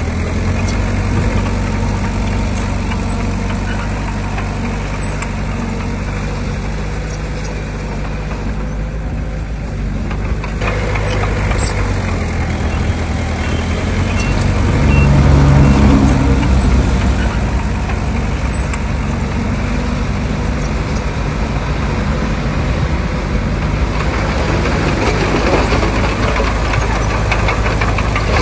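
Diesel engine of heavy earthmoving machinery running steadily, with a low drone that grows louder for a couple of seconds about halfway through.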